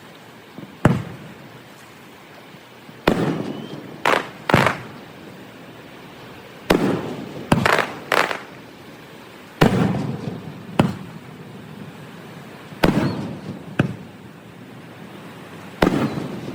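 Aerial fireworks bursting: about a dozen sharp bangs, some coming in quick pairs, each trailing off in a rolling rumble.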